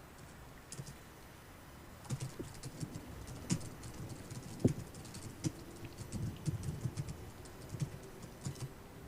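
Typing on a computer keyboard: irregular clicks and key knocks starting about two seconds in, over a faint steady hiss of rain.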